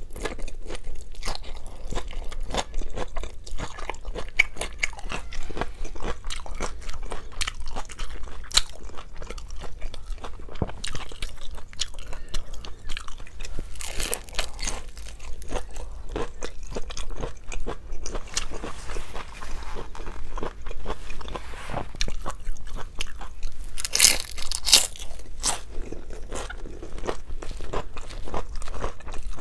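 Close-miked chewing and crunching of a fried vegetable spring roll (lumpiang gulay). A steady stream of small crisp crackles runs throughout, with louder crunchy bites about fourteen and twenty-four seconds in.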